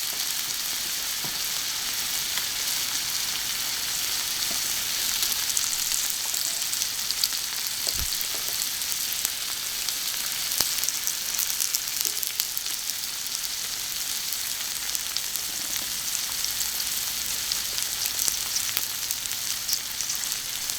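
Food sizzling and spitting steadily on a thick iron griddle plate heated by charcoal, with a light knock about eight seconds in and a smaller one a couple of seconds later.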